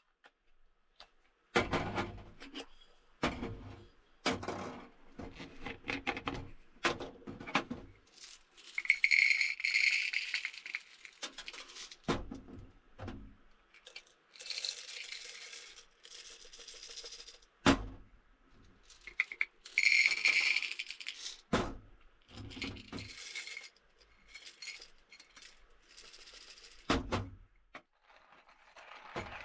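Small objects being handled at close range: a series of irregular knocks and clinks, with three stretches of rustling or hissing a second or two long.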